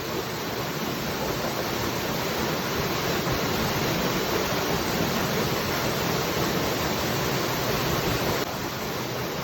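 Waterfall: a continuous rush of falling water, with the level dropping slightly and abruptly about eight seconds in.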